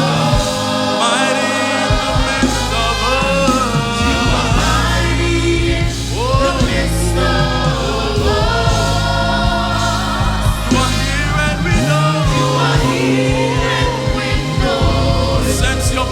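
Live gospel praise and worship music: a choir and singers over a full band with steady bass, singing melismatic, wordless-sounding lines.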